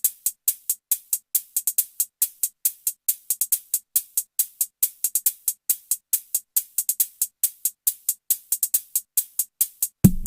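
Electronic drum-machine hi-hat ticking in a steady pattern of short, high, crisp hits, about four to five a second, with no bass under it. Near the very end, deep bass and the full beat of the track come in.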